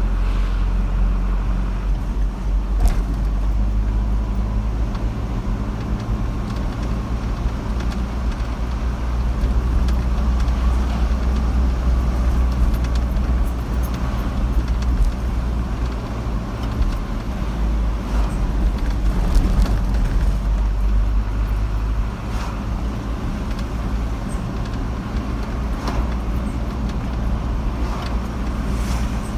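A car driving steadily: engine hum and road noise.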